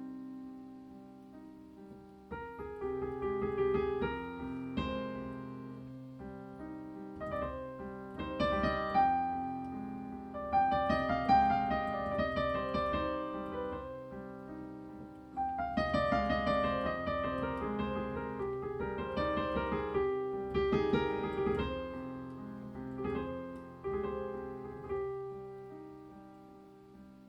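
Solo piano music, slow notes that ring and die away, thickening into fuller chords twice before thinning out again.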